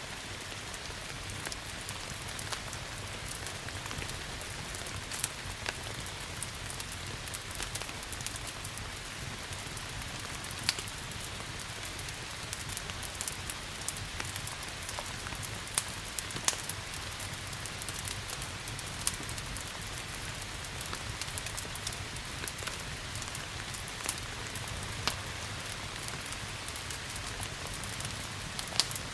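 Steady rain hiss mixed with the sharp, scattered pops and crackles of a wood fire burning in a fireplace.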